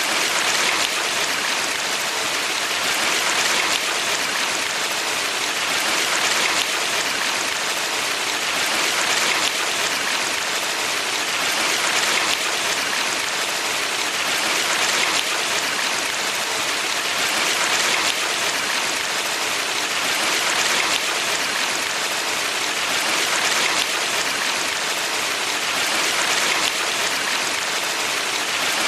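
Mountain valley stream rushing steadily, a dense splashing hiss that swells gently about every three seconds.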